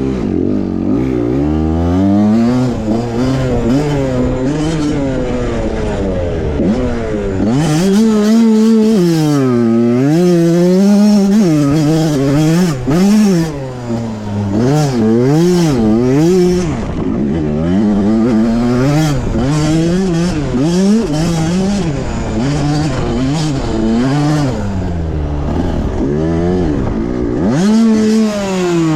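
Pit bike engine revving up and down over and over as the throttle is worked hard, with occasional short bursts of rushing noise.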